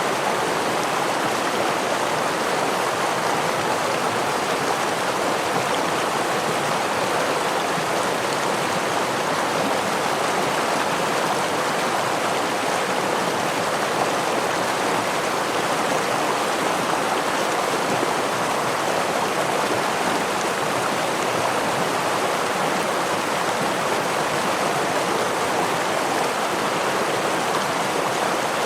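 Steady rushing of a forest stream flowing over a small waterfall, an even, unbroken water noise.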